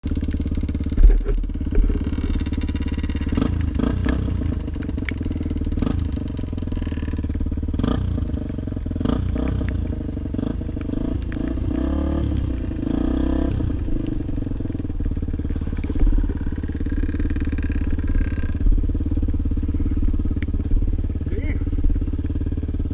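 An engine running steadily at a constant speed, with a few sharp knocks.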